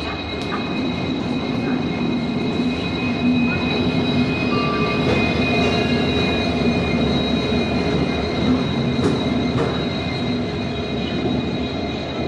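Passenger train rolling into a station platform, its wheels squealing on the rails in steady high-pitched tones over a continuous rumble.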